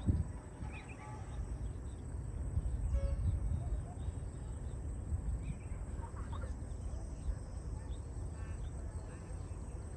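Scattered short bird chirps over a steady low rumble that swells a little for a second or so from about two and a half seconds in.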